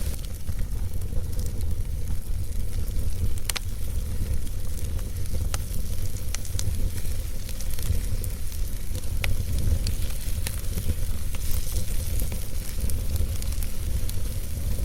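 Wood fire burning in a fireplace: a steady low rumble and hiss of the flames with scattered sharp crackles and pops from the logs, the loudest about three and a half seconds in.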